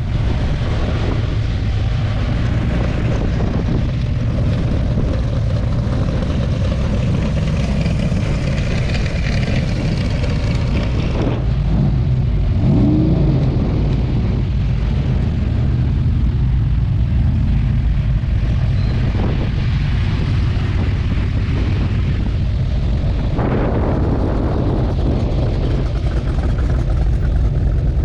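Engines of classic American cars running as they roll past in a slow street cruise, a steady low rumble. One engine revs briefly about halfway through.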